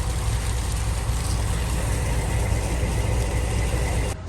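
Engine running steadily with a deep drone and broad noise over it, cutting off suddenly near the end.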